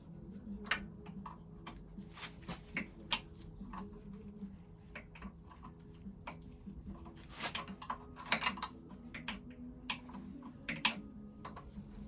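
Irregular light clicks and clinks of hand tools working on the metal parts of an engine being dismantled, over a steady low hum.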